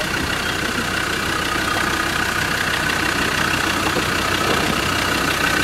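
Land Rover Discovery 2 engine running hard at a steady pitch with a steady high whine, the vehicle barely moving in a muddy rut. It sounds short of power, which the onlookers take for something wrong with the engine.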